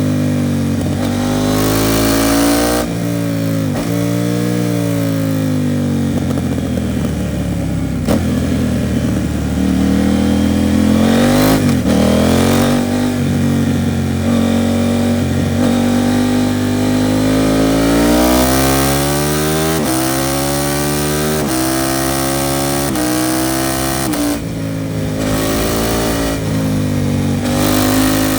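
KTM 790 Duke parallel-twin engine through an Arrow titanium race exhaust, heard from the bike while riding. It rises and falls in pitch as the rider accelerates and eases off, and from a little past halfway it climbs through several quick upshifts, the pitch stepping down at each change.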